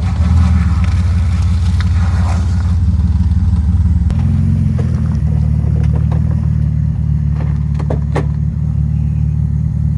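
Car engine running with a steady low drone after the clutch is let out on ice, the car pulling along in gear. The note shifts slightly about four seconds in, and a few sharp clicks come near the end.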